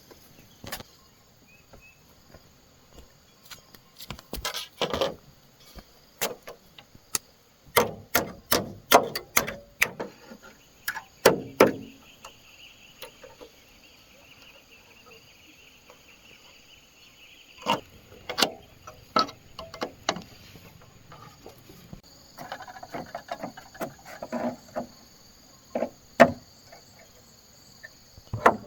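Bamboo poles knocking and clattering in irregular clusters as they are handled and worked, over a steady high drone of insects.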